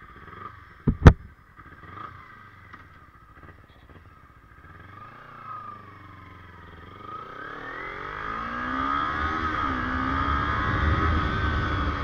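Two sharp knocks about a second in, then a Kawasaki Ninja 250R's parallel-twin engine rising in pitch and getting louder from about four seconds in, its pitch climbing and dipping as it revs.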